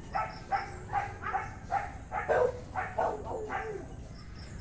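A dog barking repeatedly in quick short barks, about two to three a second, over a low rumble of wind on the microphone.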